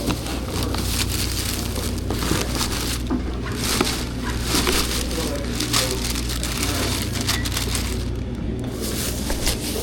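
Crinkling, rustling and knocking of bags and packaged items being handled and packed, many small clicks and crunches over a steady low hum.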